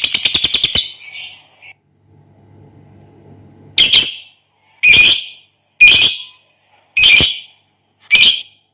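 Lovebird calling: the end of a rapid chattering trill stops just under a second in, and after a pause come five loud, harsh single calls about a second apart.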